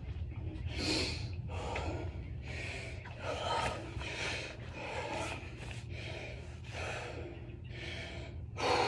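A man breathing hard in deep, rapid gasps, about one breath a second, winded right after a 12-minute set of strict six-count burpees.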